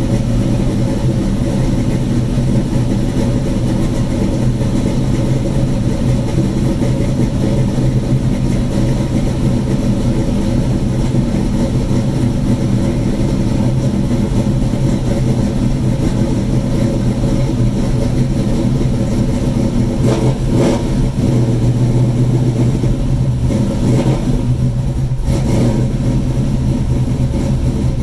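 1968 Ford Mustang's 310 cubic inch small-block Ford V8, with a Lunati cam and a Quick Fuel carburettor, idling steadily while it warms up after a cold start, heard from inside the cabin.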